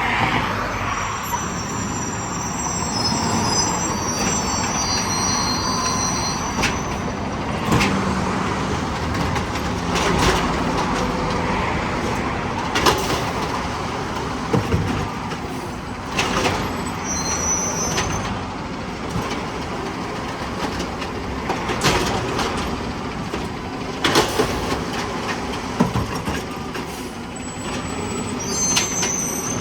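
Garbage truck running, with repeated sharp metallic bangs and clanks throughout and brief high-pitched squeals near the start and again near the end.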